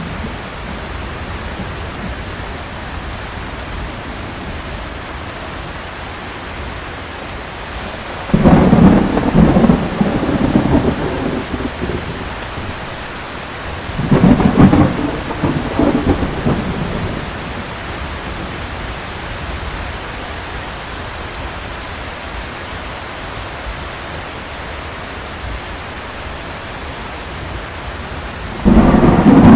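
Heavy rain falling steadily, with rolls of thunder rumbling three times: about 8 seconds in, again about 14 seconds in, each lasting a few seconds, and once more near the end.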